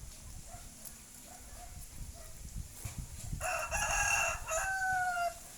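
A rooster crowing once, a single long call starting about three and a half seconds in and ending on a slightly falling note.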